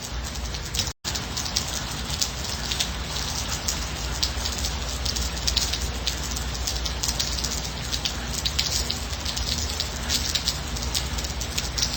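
Steady gentle rain, with many separate drop hits over a continuous hiss. The sound cuts out for an instant about a second in.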